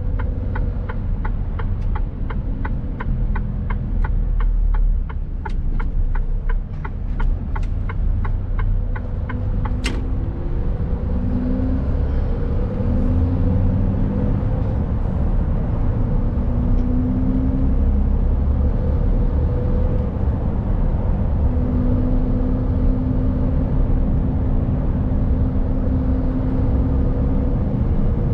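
Mercedes Actros truck heard from inside the cab: the engine runs low while the turn-signal indicator ticks about two and a half times a second for the first ten seconds. A sharp click follows, then the engine pulls away, its pitch rising and breaking off in steps as it goes up through the gears. It then runs steadily.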